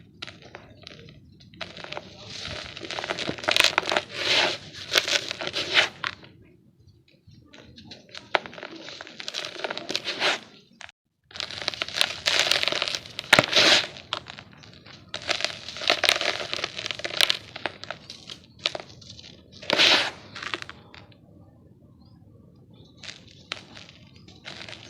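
Dry, gritty yellow dirt being crumbled, giving crunching and crackling in repeated bursts with short quiet gaps between them.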